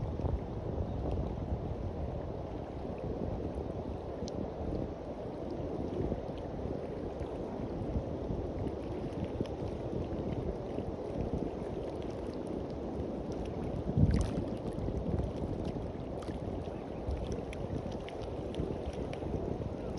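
Sea waves washing on a beach, a steady rushing noise, with wind buffeting the microphone. One brief louder thump about two-thirds of the way through.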